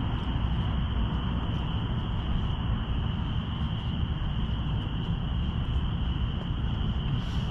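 A steady chorus of crickets, an unbroken high chirring, over a constant low rumble.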